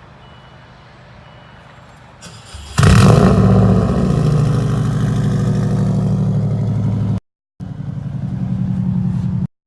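Subaru boxer flat-four engine with its catalytic converters removed, running loud through the opened-up exhaust. A quieter low hum jumps suddenly to a loud, deep exhaust note about three seconds in, runs a little higher for a moment, then settles into a steady idle. The sound drops out briefly twice, once near the end.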